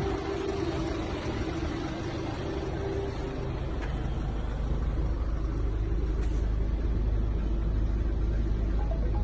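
Renault Master 2.3 diesel van engine idling, a steady low rumble that grows slightly stronger about halfway through.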